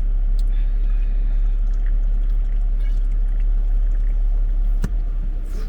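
Steady low rumble with a hiss over it, and a single sharp click about five seconds in.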